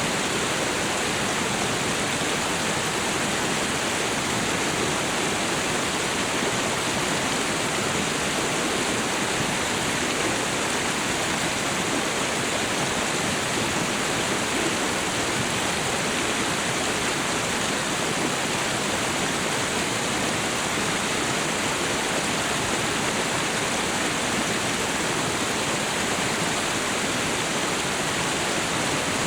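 Waterfall and river water rushing, a steady even roar with no breaks.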